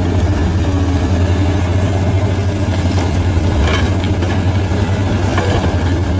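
Bulldozer's diesel engine running steadily at a constant, deep hum.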